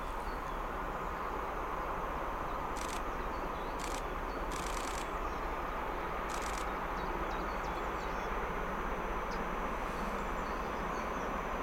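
Distant train approaching along the line: a steady far-off rumble that grows slightly louder toward the end, with small chirps of birds over it.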